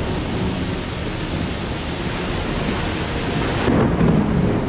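Floodwater rushing down a sloped street: a steady, dense rush of water. Near the end the hiss thins and a louder low rumble comes in.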